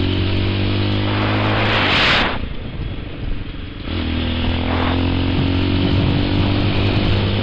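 TaoTao TBR7 dirt bike's single-cylinder four-stroke engine running at a steady pitch while riding. About two seconds in there is a hissing rush, then the engine note falls away for about a second and a half before coming back steady at about four seconds.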